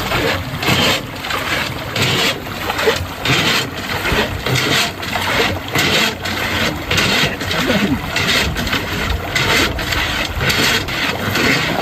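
Water rushing and splashing at a clogged fish-pond outlet in quick, irregular surges, about two or three a second.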